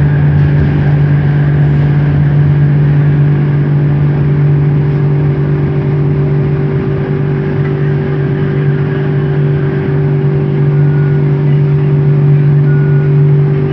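Bombardier Innovia ART 200 driverless metro train running at steady speed, heard on board: its linear induction motors give a loud, even hum with a few steady higher tones over the rumble of running noise.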